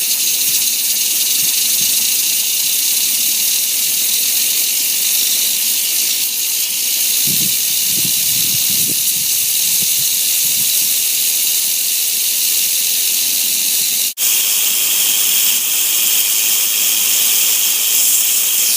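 Steam hissing steadily and loudly from a homemade model steam boiler, with a few low rumbles about halfway through.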